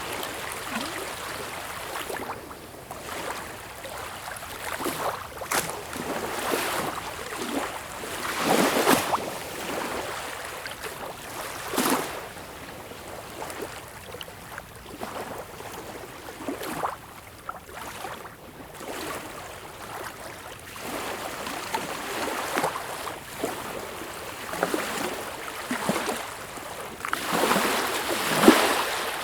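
Sea water washing and splashing in irregular surges, with sharper splashes every few seconds, the loudest near the end.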